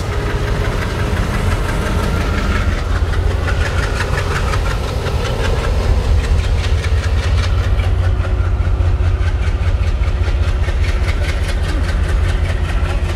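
Engine running at idle with a steady, rapid knocking, loud and close.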